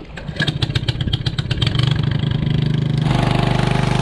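Small engine of a water pump starting up: a run of quick clattering strokes, then it settles into a steady run. About three seconds in the sound changes to a fuller, even drone.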